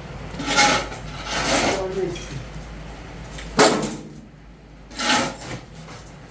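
A handful of short knocks and scrapes of objects being handled, about a second apart, with one sharper knock about three and a half seconds in.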